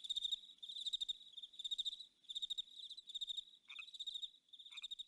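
Crickets chirping at night: high, rapid pulsed chirps repeating about one and a half times a second. Near the end, two short lower calls that drop in pitch cut in between the chirps.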